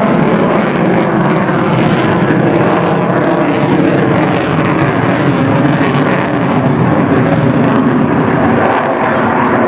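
Aircraft flying past with loud, steady engine noise that holds throughout.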